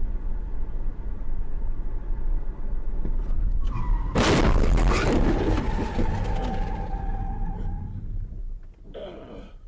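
Vehicle driving noise, then a loud car crash a little over four seconds in, with a sustained high tone that starts just before the impact and fades about four seconds later.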